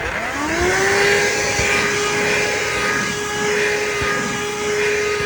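Handheld vacuum cleaner motor spinning up, its whine rising in the first half second, then running steadily with a hiss of air.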